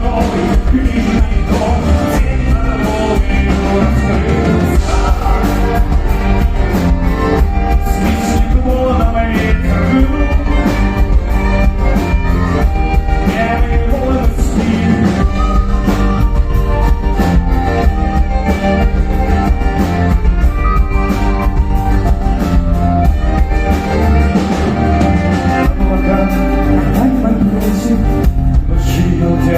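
Folk-rock band playing a song live, with singing over the band.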